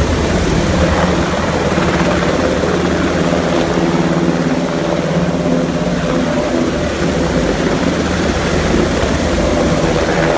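UH-60 Black Hawk helicopter with its twin turbine engines and rotors running loud and steady, a low rotor hum under a dense rushing noise.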